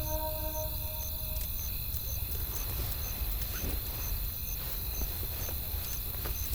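Campfire ambience: wood crackling with scattered faint pops over a low rumble of wind, with a high chirp repeating evenly about twice a second. A soft music phrase dies away in the first second.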